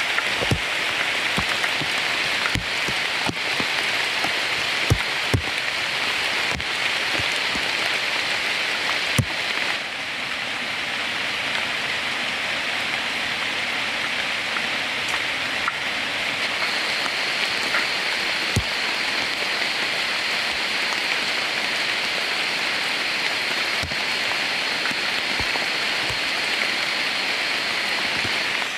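Steady rain falling, with heavier drops striking a surface every second or so. A faint steady high tone comes in a little past halfway.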